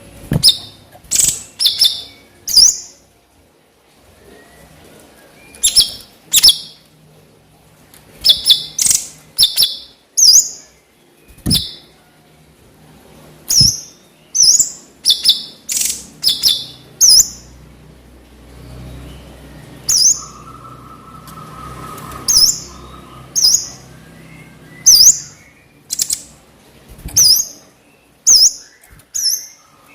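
Cucak cungkok giving loud, sharp, high 'nembak' calls: short piercing notes, some single and some in quick pairs, repeated every second or so with short gaps. A faint steady tone sounds for a few seconds past the middle.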